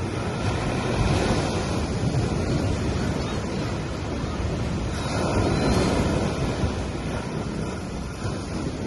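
Gentle waves washing onto a sandy beach: a continuous wash of surf that swells about a second in and again around five seconds.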